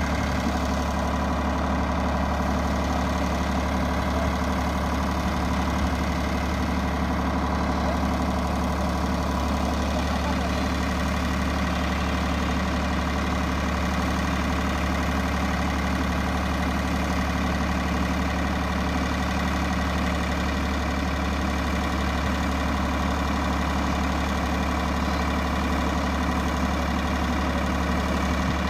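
Sonalika tractor's diesel engine running steadily at an even speed.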